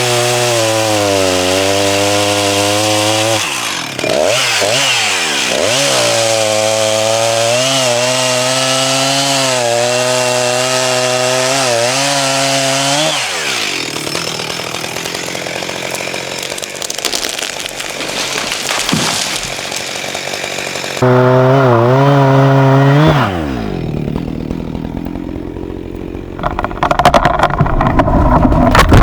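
Two-stroke chainsaw running at high revs, cutting into wood. Its pitch sags and recovers a few seconds in, and it winds down about halfway through. After a lull the saw runs flat out again for about two seconds and falls away. A loud clattering, rough burst of noise comes near the end.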